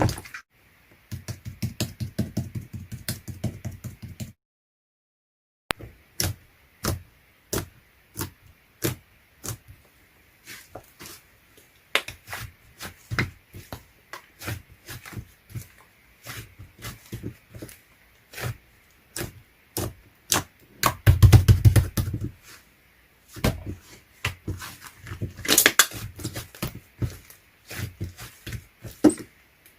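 A dog licking and eating ice cream: a long run of sharp, irregular mouth clicks and smacks, with a louder, deeper smacking burst about two-thirds of the way through.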